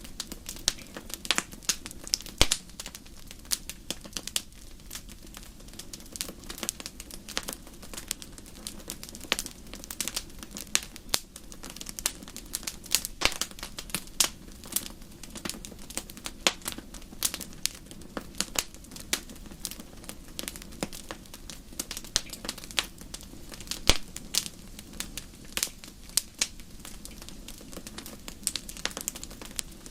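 Wood fire crackling, with many irregular sharp pops and snaps over a low steady hum.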